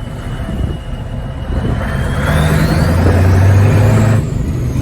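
Scania truck engine pulling under load, getting louder about halfway through with a thin whine rising in pitch over it, then easing off abruptly shortly before the end.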